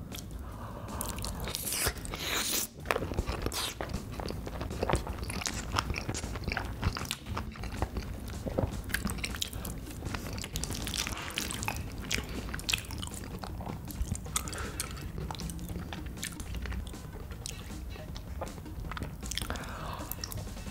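A person chewing and biting food, a dense run of short clicks and crunches that goes on through the whole stretch.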